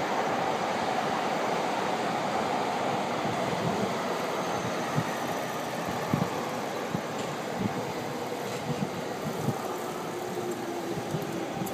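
Electric commuter train running past on the tracks below: a steady rumble with scattered short wheel knocks, and a low whine that slowly falls in pitch in the second half.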